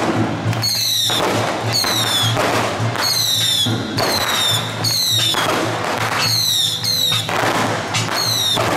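Strings of firecrackers crackling, with a high whistle falling in pitch roughly once a second over a steady low hum.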